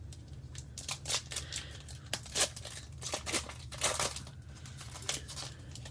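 A trading card pack being torn open, its wrapper crinkling and crackling in a quick run of sharp rustles, loudest in the middle.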